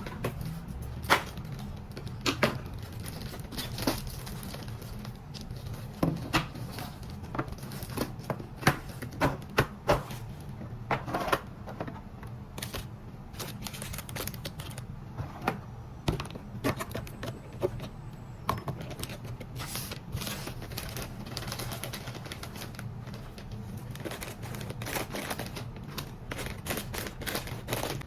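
Irregular sharp taps and clicks, a few louder than the rest, over a low steady hum.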